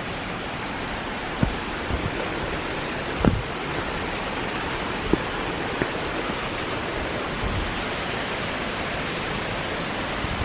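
Steady rush of flowing water, as from a waterfall or fast stream, holding an even level throughout, with a few soft thumps standing out here and there.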